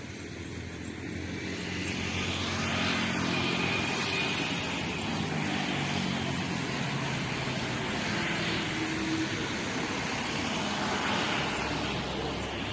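Vehicle engine noise that grows louder about two seconds in and holds steady, with a hiss that swells and fades four times.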